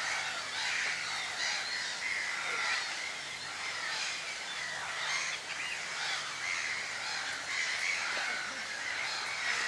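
Several birds calling at once in woodland, short calls repeating about twice a second.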